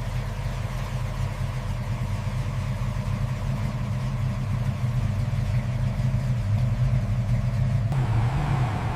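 Cadillac Eldorado V8 engine idling steadily, a low even hum; a hissing noise in the background grows a little louder near the end.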